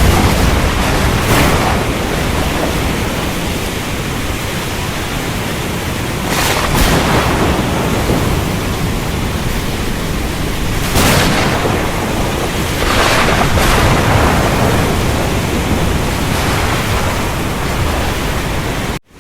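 Thunderstorm ambience: steady heavy rain over a deep rumble, with several sharper surges of thunder. The sound cuts out abruptly for a moment near the end.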